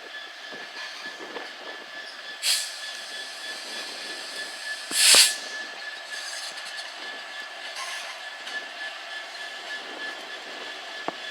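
Train moving on the rails with a steady high-pitched wheel squeal, broken by two short loud bursts of hiss, the second one longer.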